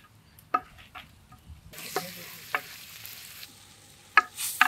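Shallots and spices frying in coconut oil in a clay pot, sizzling more loudly from about two seconds in, while a wooden ladle stirs and knocks against the pot, the sharpest knocks near the end.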